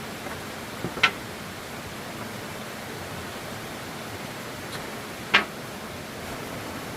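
A steady rushing hiss with two sharp knocks, about a second in and again a little past five seconds.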